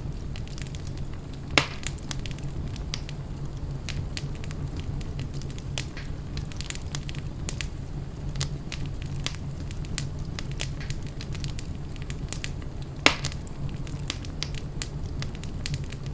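Wood fire crackling in a fireplace: dense small crackles over a steady low rumble, with two loud sharp pops, one about one and a half seconds in and one late on.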